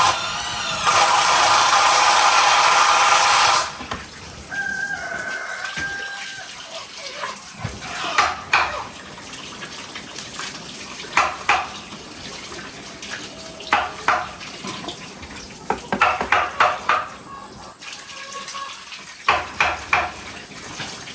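Water pouring into a container for about three and a half seconds, then stopping. It is followed by scattered clinks and knocks of dishes and utensils being handled, some in quick runs of several.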